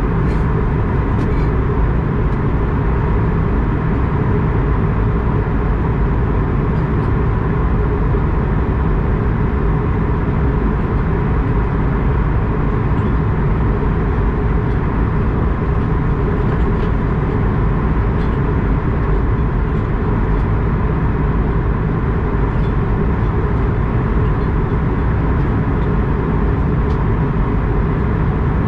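Airbus A220-100's Pratt & Whitney PW1500G geared turbofan engines running, a loud, steady, unchanging noise with a faint hum.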